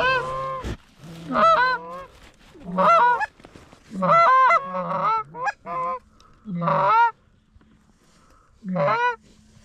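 Geese honking, about seven loud two-note honks at uneven intervals, each breaking from a low note up into a higher one, with a lull of a second or two shortly before the end.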